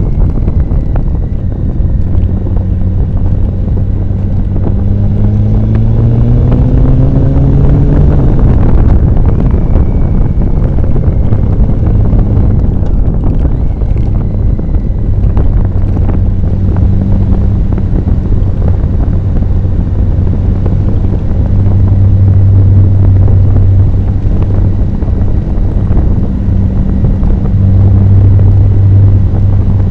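Motorcycle engine running under way, with heavy wind buffeting the microphone. Its pitch rises as it accelerates from about five to eight seconds in, falls back, then holds steady.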